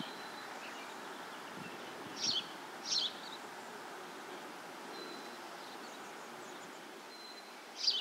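Outdoor ambience: a steady soft hiss with short, high bird chirps, two about two and three seconds in and another near the end, and a couple of faint thin whistles between them.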